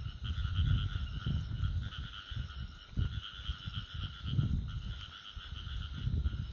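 Steady high-pitched chorus of calling insects, over irregular low rustles and thuds of walking close to a clip-on microphone.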